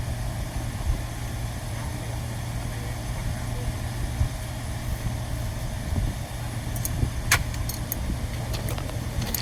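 Steady low hum of running machinery, with a few sharp clicks from about seven seconds in.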